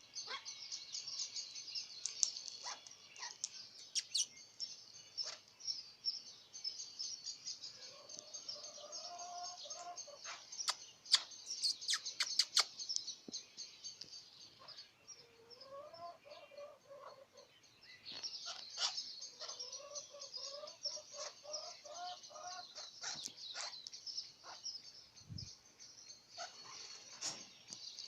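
Parrots chattering and calling: a constant high-pitched twittering chatter, with lower calls that slide up and down in pitch several times and a run of sharp clicks around the middle.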